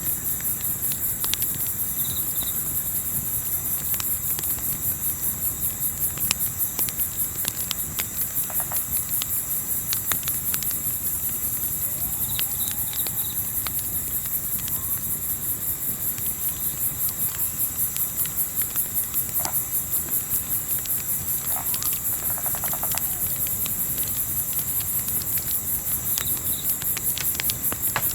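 Crickets chirping in a steady, fast, even trill, with scattered sharp crackles from a wood campfire.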